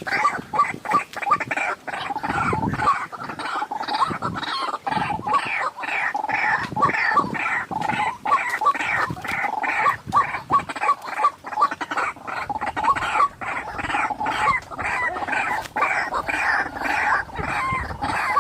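White-breasted waterhen calling: a long, loud run of harsh, evenly repeated notes, about two to three a second.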